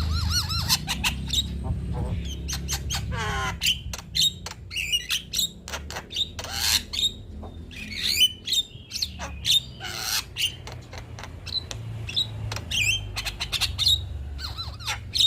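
A male Javan myna singing a varied, chattering song of rapid clicks, harsh squawks and rising and falling whistles, with a steady low hum underneath.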